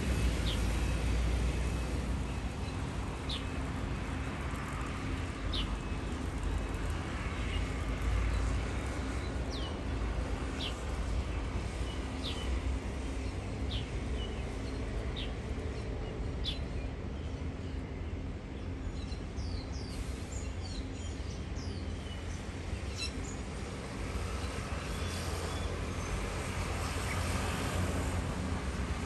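A bird calling with short, high, downward-slurred chirps every second or two, with a quicker run of softer chirps past the middle, over a steady low rumble of background noise.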